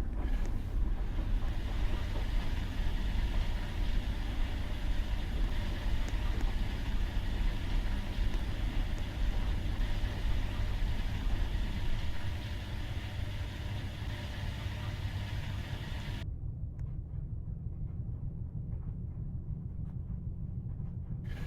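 Washing machine running, a steady deep rumble and hum. It drops in level about halfway through, and a few seconds later the higher sound cuts off abruptly, leaving only the low hum for the last few seconds.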